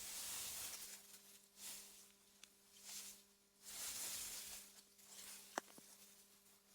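Soft wind through meadow grass, rising and falling in several gusts of hiss, over a faint steady low hum. A single sharp click about five and a half seconds in.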